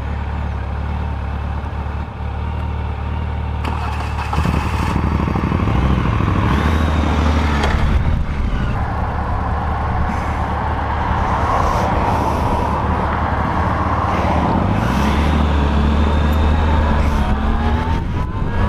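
Motorcycle engine pulling away and accelerating, its pitch rising and dropping back with gear changes about four and fifteen seconds in, with wind rushing over the microphone as speed builds.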